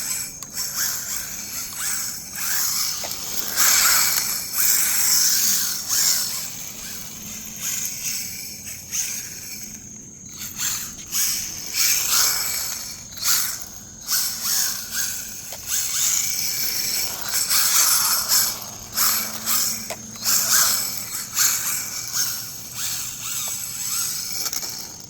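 Battery-electric RC rally car on drift tyres, its motor rising and falling in repeated swells as the wheels spin and slide with little grip.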